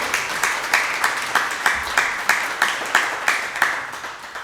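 A small audience applauding, with one nearby pair of hands clapping steadily at about three claps a second over the rest. The applause fades out near the end.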